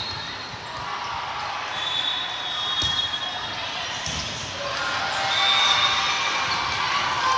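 Volleyball gym during play: a ball hitting a hand and the court, with a sharp thud about three seconds in, over a murmuring crowd in a large hall.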